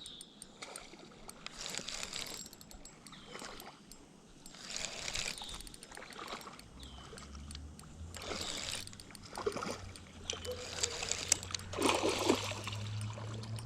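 Water splashing and sloshing in surges, a few seconds apart, as a hooked bullhead is fought and reeled in through weeds.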